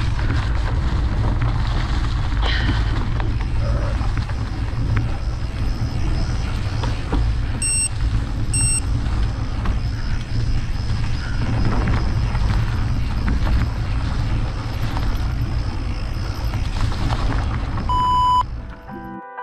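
Heavy wind buffeting on the microphone, a steady low rumble, while riding a mountain bike. Two short electronic beeps sound near the middle, and a brief tone near the end before it cuts off suddenly.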